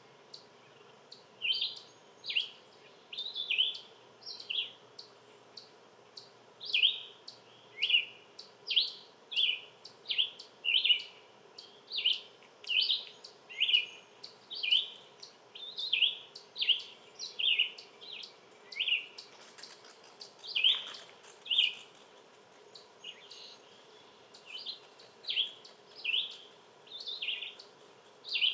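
A bird chirping over and over, short downward-sweeping chirps at about two a second.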